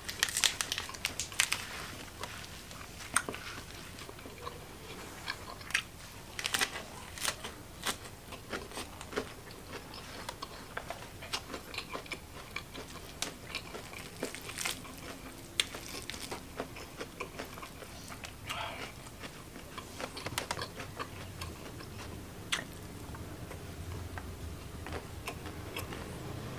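Close-miked eating of spicy fried chicken: wet chewing with irregular sharp crunches and mouth clicks.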